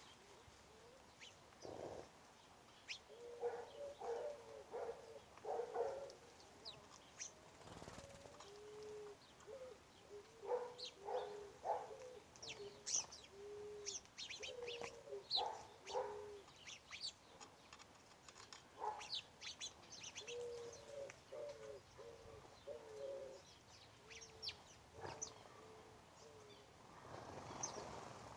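Doves cooing in repeated phrases of short low notes, with small birds chirping in brief high notes over them.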